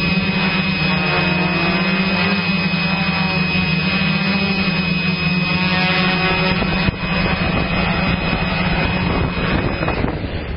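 Motocross bike engine running loud at a nearly steady pitch, dropping away right at the end.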